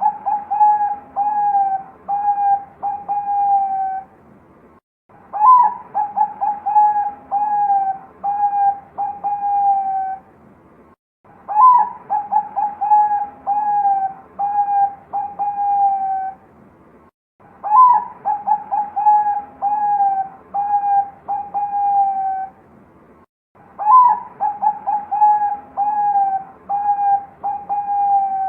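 Zebra dove (perkutut, Bangkok strain) singing its song over and over, loud and clear. Each phrase opens with a higher coo, runs through a string of quick notes sliding down, and ends in a long low coo. The phrase comes five times, about every six seconds.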